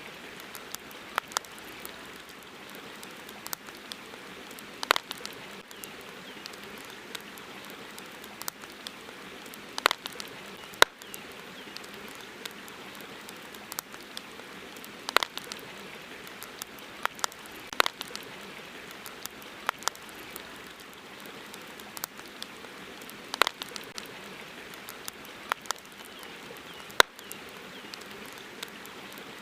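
Wood campfire crackling: irregular sharp pops and snaps, several a second, over a steady hiss.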